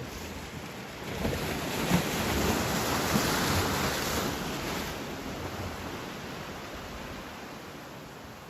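Ocean surf: a wave breaking and washing up the beach, the rush building about a second in, loudest in the middle, then slowly dying away.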